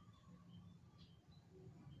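Near silence, with a few faint, short, high chirps from small birds.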